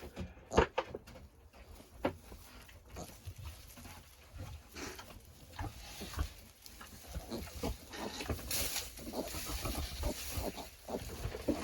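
A sow and her newborn piglets grunting in short, separate sounds, with rustling that grows louder in the second half.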